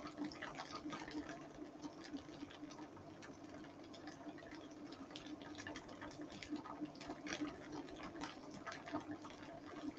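Tofu slices frying in oil in a pan: a faint sizzle with many small scattered pops and crackles, over a steady low hum.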